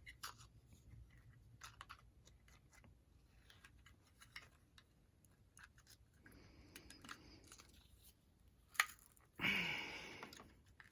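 Faint scattered snips and small clicks of scissors cutting faux leather paper, with a sharp click shortly before the end followed by a louder scratchy rustle.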